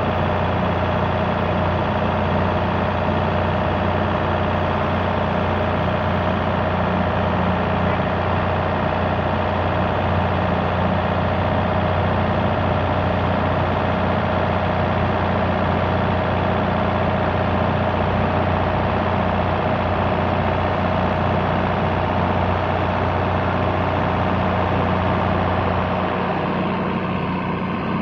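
Motorboat engine running steadily with a low, even hum; it fades near the end.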